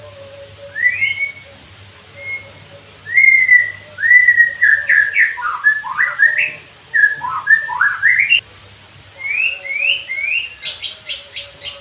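White-rumped shama (murai batu) singing a run of loud whistled phrases that glide up and down. Near the end it breaks into a fast series of short sharp notes, about six a second.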